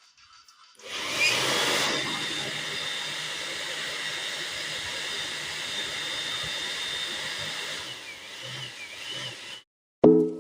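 Electric air blower running: a steady rush of air with a high motor whine. It starts about a second in, is loudest just after starting, and cuts off suddenly near the end.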